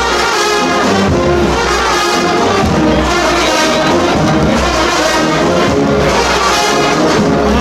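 Brass band playing a processional march, trumpets and trombones carrying the melody.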